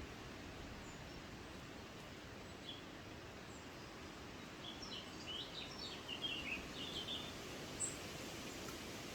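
Quiet woodland ambience with a steady background hiss; about halfway through, a small bird gives a quick run of short high chirps and twitters lasting a few seconds, then one more high note.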